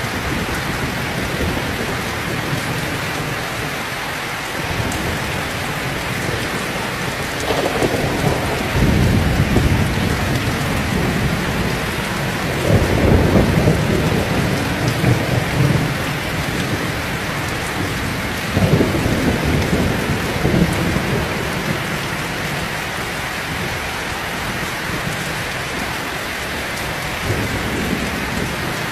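Heavy rain falling steadily, with deep rumbles of thunder rolling in several times: one about a third of the way in, the loudest near the middle, another about two-thirds in, and a fainter one near the end.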